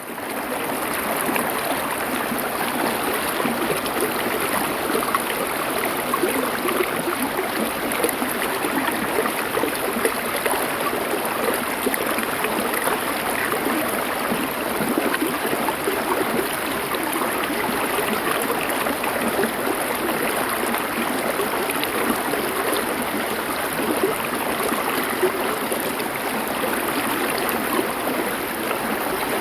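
River water flowing over stones, a steady, even rush of running water.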